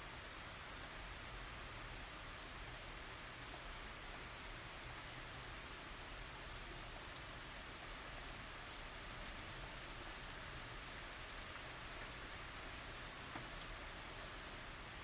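Light tropical rain falling steadily, with scattered separate drops ticking through the even hiss.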